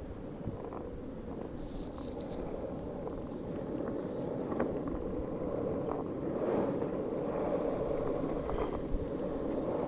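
Strong wind buffeting the microphone: a steady low rumble that gets a little louder after the first few seconds, with a few faint clicks.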